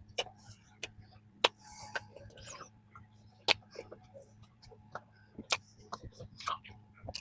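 Close-miked chewing of a flaky strawberry danish: irregular sharp crunches and mouth clicks, with a short soft rustle about two seconds in.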